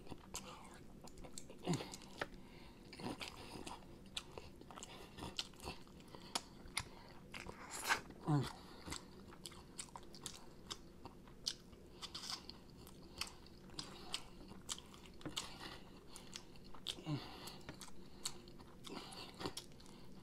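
Close-up chewing and biting of sauced chicken wings: many sharp wet clicks and crunches as meat is pulled off the bones. A few short vocal noises come in between, the loudest about eight seconds in.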